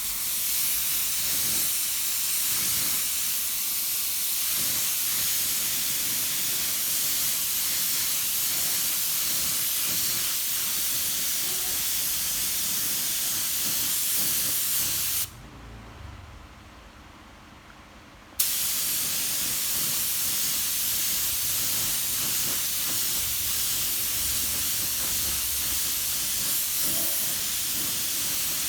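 Paint being sprayed onto the scooter's plastic headlight housing, a steady hiss that stops for about three seconds midway and then starts again.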